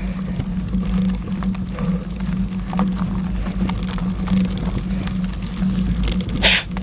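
Mountain bike rolling along a dirt trail: a steady low rumble and hum, with scattered clicks and rattles from the bike, and a short hiss near the end.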